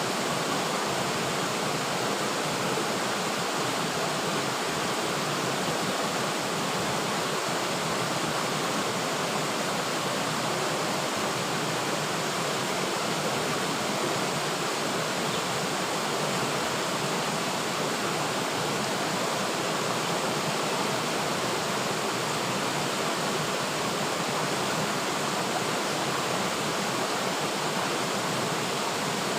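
River water flowing steadily over rocks, an even rushing that holds the same level throughout.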